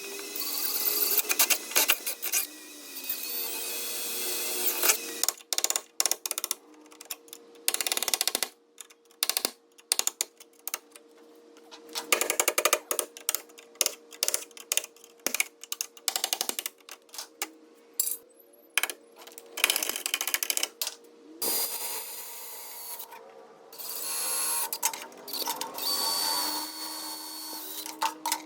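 Stop-start power-tool and metalworking sounds: stretches of a tool running with a steady whine, broken up by sharp clicks and knocks on metal.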